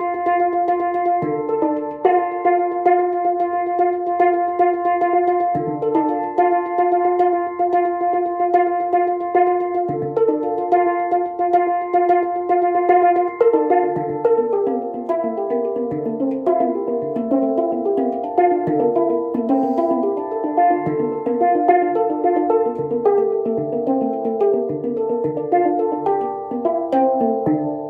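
Handpan played by hand: ringing, bell-like metal notes over a low note struck every few seconds. About halfway through, the notes come faster and busier.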